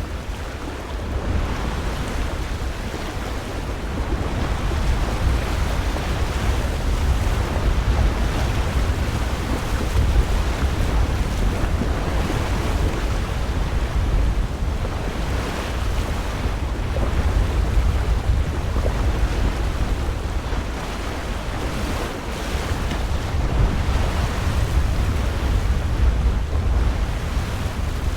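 Lake waves washing ashore, swelling and easing every few seconds, with wind buffeting the microphone.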